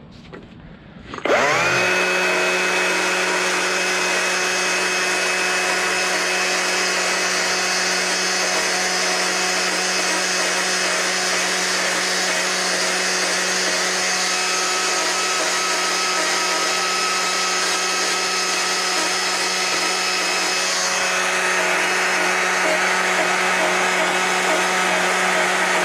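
A power tool's electric motor spins up about a second in, rising quickly in pitch, then runs at a steady high speed with a constant whine.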